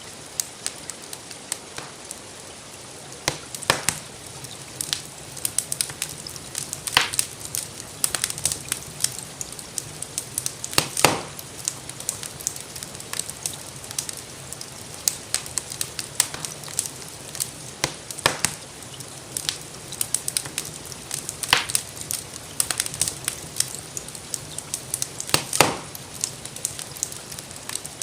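Wood fire crackling in a fireplace, with frequent sharp clicks and several louder pops, over a steady hiss of rainfall.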